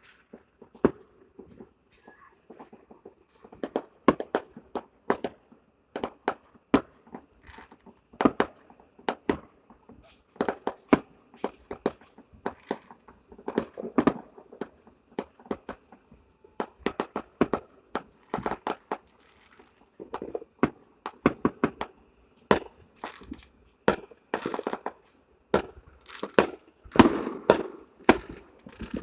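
Fireworks going off: many sharp bangs and crackles at irregular intervals, coming thicker and louder in the last few seconds.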